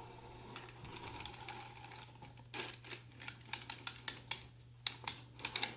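Carriage of a 3D-printed flatbed knitting machine pushed back across the needle bed to knit a course: a faint sliding sound, then from about halfway a quick run of sharp plastic clicks as the needles are driven through.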